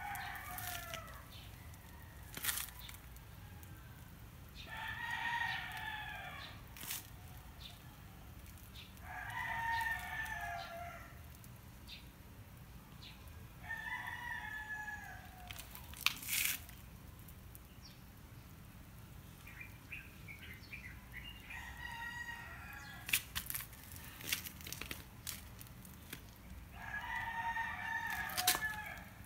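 A bird calling over and over, five calls of about two seconds each that fall in pitch at the end, at gaps of four to seven seconds. Sharp clicks are scattered between the calls.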